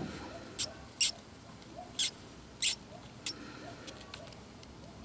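A live pinkie mouse squeaking as the corn snake takes it: about five short, high-pitched squeaks spread over the first three and a half seconds.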